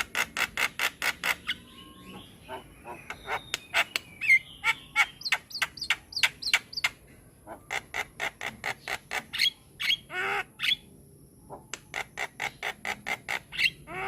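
Javan myna (jalak kebo) singing: fast trains of short, harsh, repeated notes, several a second, mixed with slurred whistled notes and a longer rasping call about ten seconds in.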